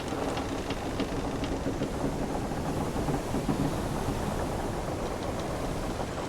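Wooden sailing ship's timbers creaking over ocean waves washing against the hull: a steady, dense rumble with faint low creaks and small ticks running through it.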